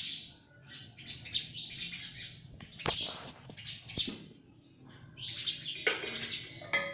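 Ring-necked parrot chattering with quick, high chirps, with two sharp clicks about three and four seconds in.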